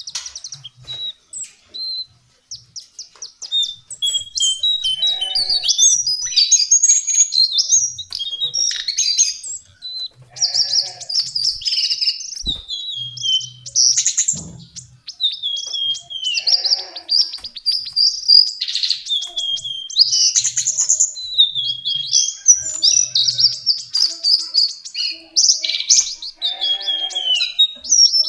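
Lesser shortwing singing: rapid, jumbled high warbling phrases in quick succession. The song is sparse at first, then nearly continuous from about four seconds in.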